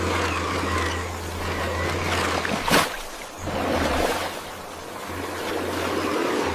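A vehicle running: a rough, noisy sound over a low hum that drops out a few times, with one sharp knock near the middle.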